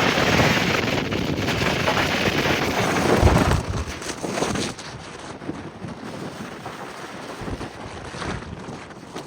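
Wind buffeting the microphone over the rumble of a Humvee driving. The noise is loud at first, then drops sharply about four seconds in to a softer rush.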